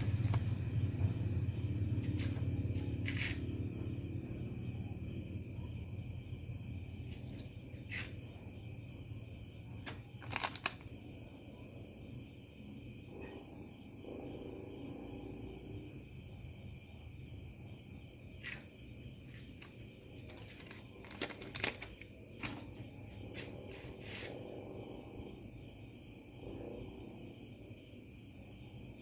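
Insects chirring steadily in a fine, fast pulse. A low rumble fades away over the first few seconds, and a few sharp clicks and knocks come at scattered moments, the loudest about ten seconds in and about two-thirds of the way through.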